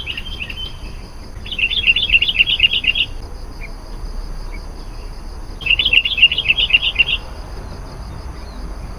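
Sooty-headed bulbul (kutilang) song: two bursts of rapid, bubbling notes, each about a second and a half long and about four seconds apart, with a couple of single notes between, over a faint steady insect-like hum.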